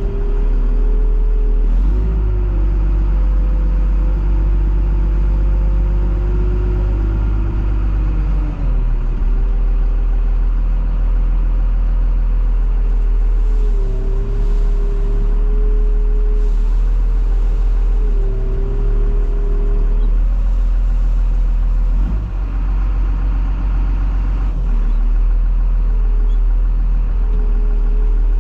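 International TerraStar diesel truck driving, heard from inside the cab: a steady low engine and road rumble with a humming drivetrain tone that drops and shifts several times.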